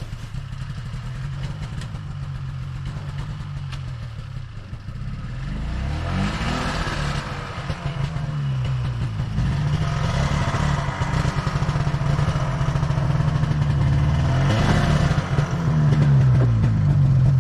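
Snowmobile engine running and being throttled up, its pitch rising and falling about six and again about fourteen seconds in, getting louder overall.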